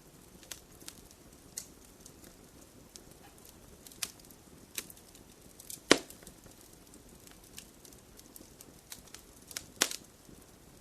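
Wood fire crackling in a fireplace: irregular sharp pops and snaps over a faint steady hiss, with a loud pop about six seconds in and another just before the end.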